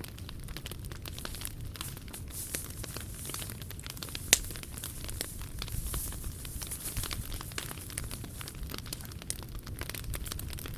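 Wood fire crackling with many small irregular snaps and one loud pop about four seconds in.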